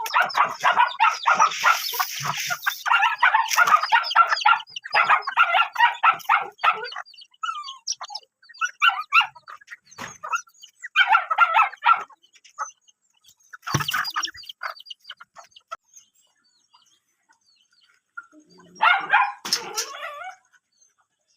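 Dogs yipping and whining excitedly in rapid bursts: a long run at first, shorter bursts later, with a single thump about fourteen seconds in.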